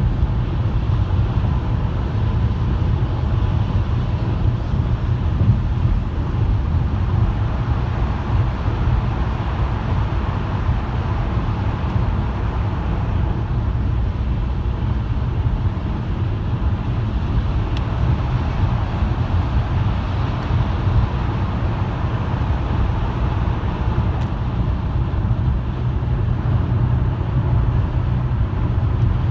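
Car driving on the road: a steady low rumble of road and engine noise that holds even throughout.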